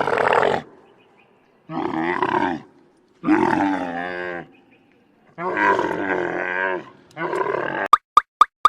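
Camel grunting and bellowing in a series of long, rough, gurgling calls. Near the end the calls give way to a quick, even ticking of about four clicks a second.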